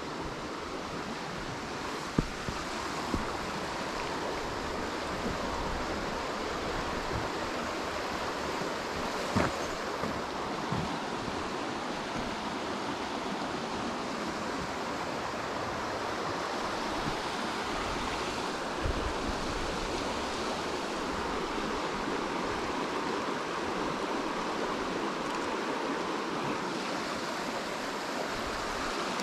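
A steady rushing outdoor noise, with a few brief knocks, the clearest about two seconds in and again around nine seconds in.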